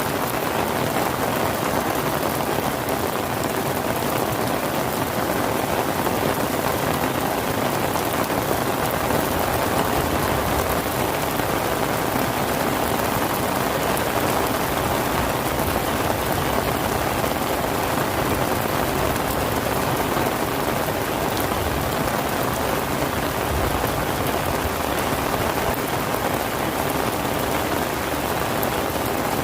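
Steady rain falling on surfaces: an even, unbroken hiss with no let-up.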